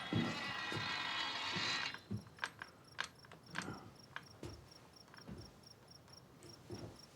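Crickets chirping in a steady run of regular high pulses, with a few scattered knocks. A louder, dense sound cuts off abruptly about two seconds in.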